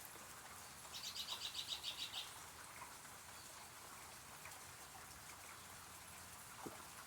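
A bird's rapid trill of about a dozen quick high notes, lasting just over a second, starting about a second in, over a faint steady hiss of rain.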